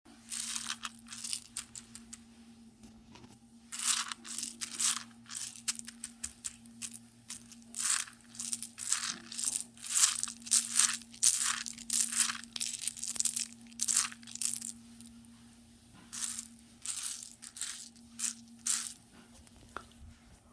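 Popcorn kernels popping: scattered sharp crackling pops that grow into a dense run about halfway through, then thin out again, over a steady low hum.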